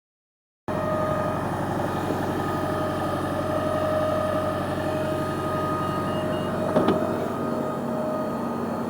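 A New Routemaster diesel-electric hybrid bus running with a steady high-pitched whine over its low engine hum; this is the weird noise the clip is about. There is a short clack near the seven-second mark.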